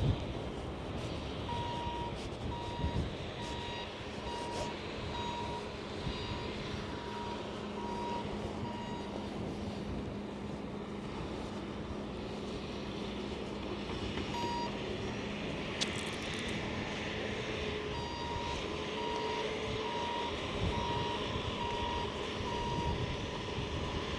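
Vehicle reversing alarm beeping steadily, a bit more than once a second, in two runs: one early and one near the end. Underneath is a steady low hum and ongoing vehicle noise.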